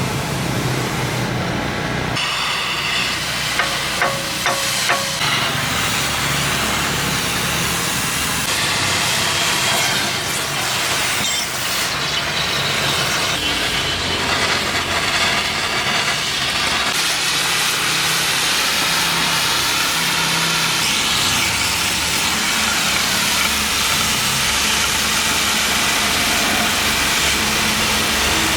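Loud, steady mechanical noise with a hiss, and a few sharp clicks about four to five seconds in.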